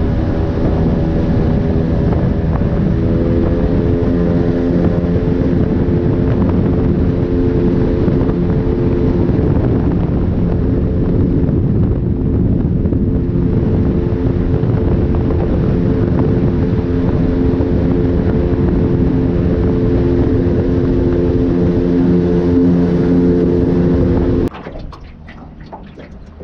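An engine running steadily at a constant speed, then shutting off suddenly near the end.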